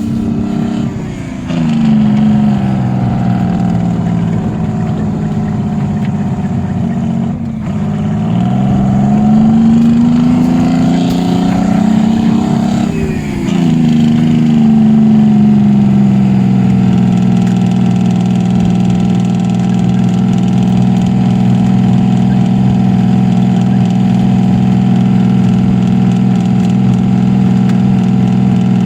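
Concrete mixer truck's diesel engine working hard under way in high range: its pitch sags, then climbs, dips sharply about thirteen seconds in as it changes gear, then holds a steady drone.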